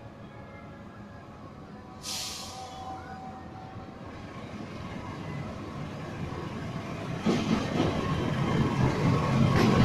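GE CC206 diesel-electric locomotive hauling a passenger train on its approach, its engine and wheel noise growing steadily louder as it nears. A brief hiss about two seconds in, and the rumble and clatter of the wheels on the rails jump up in the last few seconds as the locomotive draws level.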